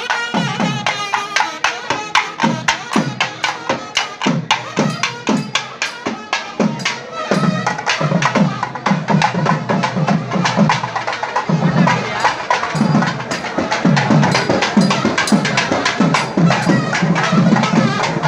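South Indian temple music: fast, driving thavil drumming with sharp cracking strokes over deeper drum beats, and now and then faint notes from a reed pipe.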